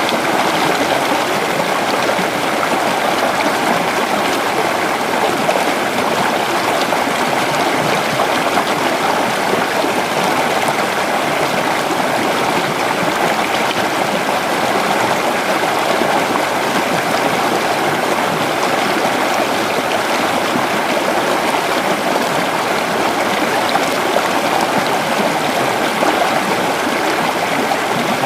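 Creek water flowing and babbling steadily over rocks, a continuous even rush of running water.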